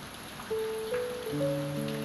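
Soft, slow piano notes over a steady patter of rain. A few new notes come in from about half a second in and are held, overlapping.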